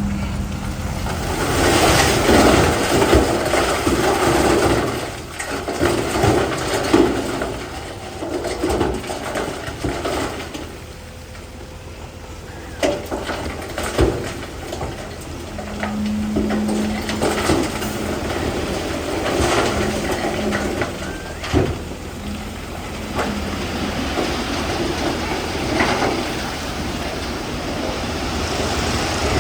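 Komatsu bulldozer's diesel engine working under load, with the noisy grind of rock shoved by the blade, rising and falling in waves, and a few sharp knocks of stone.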